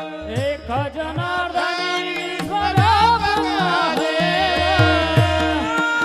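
Marathi devotional gavlan music: a sustained, wavering melody over a steady drone, with a tabla beat whose low strokes slide down in pitch.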